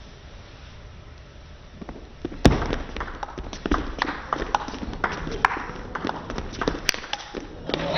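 Table tennis rally: the ball clicks off the bats and the table in a quick run of sharp knocks, about two a second. The run starts with a loud hit about two and a half seconds in and keeps going until near the end.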